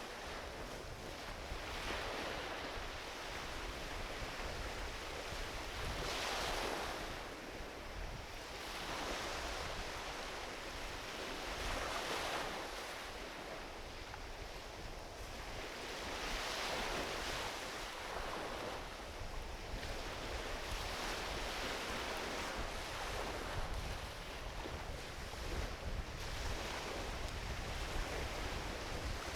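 Small ocean waves washing onto a beach, swelling and fading every few seconds, with a low wind rumble on the microphone.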